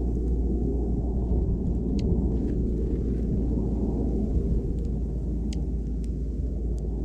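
A steady low rumble, with a few faint, very short high chip notes from juncos about two seconds in and again near the end.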